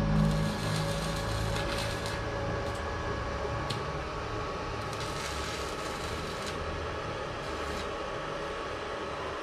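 Steady workshop background hum with a few light clicks and knocks, as the bass-heavy music fades out just after the start.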